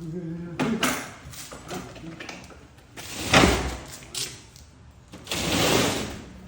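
A large refrigerator being manhandled: one heavy thud about three seconds in, then about a second of scraping as it is shoved along.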